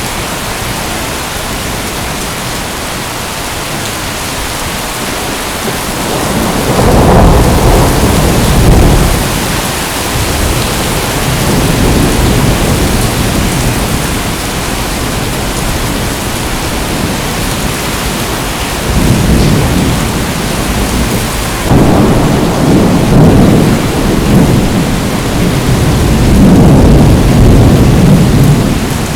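Steady heavy rain hissing, with repeated low rolls of thunder rumbling in from about six seconds on, the loudest near the start of the rumbles and again near the end.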